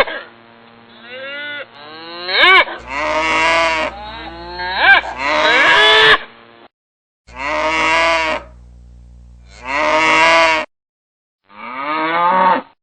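Cows mooing: a series of about six separate moos, one after another, some gliding up and down in pitch, several starting and stopping abruptly.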